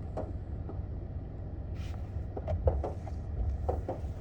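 Steady low rumble of a car running, heard from inside the cabin, with a few faint murmured words.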